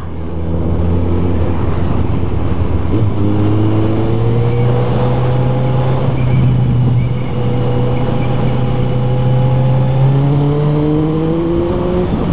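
Motorcycle engine under way, pulling through the gears: its note climbs steadily, drops back at shifts about three seconds in and again around ten seconds, then climbs again. Wind rush runs underneath.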